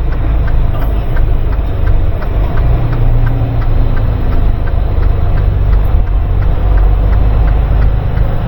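Semi-truck's diesel engine running slowly with a steady, heavy low rumble and a light, regular ticking.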